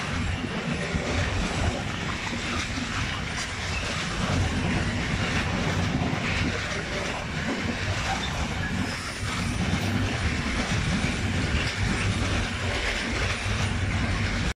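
Car-transporter train's loaded flat wagons rolling past, wheels rumbling and clattering steadily on the rails.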